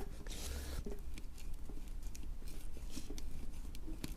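A hand tool rasping in and out of a puncture hole in a tyre, grating and clicking irregularly as it cuts through the tyre's steel belts.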